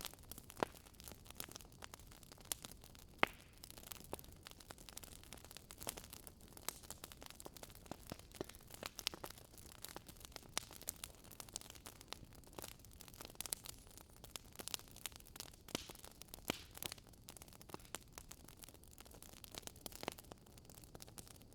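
Campfire burning, wood crackling and popping in irregular sharp snaps over a soft, steady hiss of flames.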